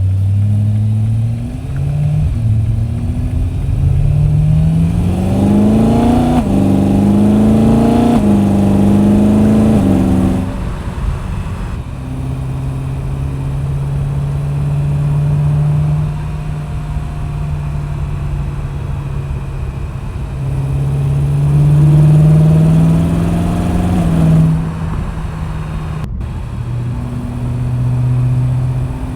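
BMW E92 M3's 4.0-litre V8 and M Performance exhaust accelerating through the gears. The engine note rises in pitch and drops at each upshift, then settles to a steady cruise. About two-thirds of the way through it pulls up again briefly, eases off and cruises on.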